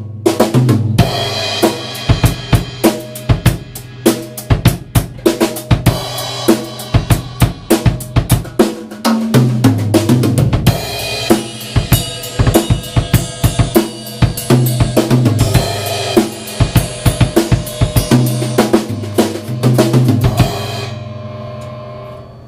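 A 1973 Ludwig drum kit with Zildjian cymbals played in a steady straight-ahead groove with Lightning Rods multi-rod sticks, with snare, bass drum, hi-hat and cymbals. Near the end the playing stops and the cymbals ring out.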